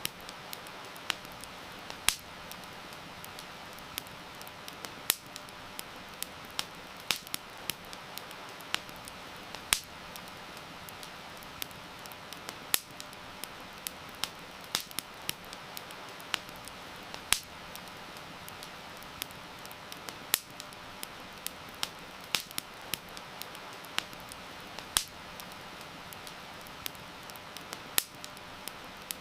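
Wood fire crackling with sharp, irregular pops, a few much louder than the rest, over a steady hiss of heavy rain.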